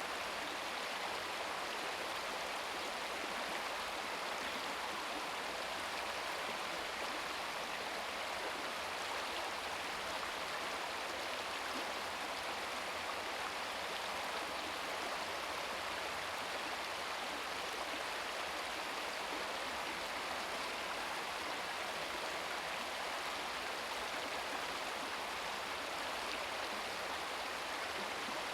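Babbling brook: shallow stream water running and gurgling over rocks, a steady rushing wash.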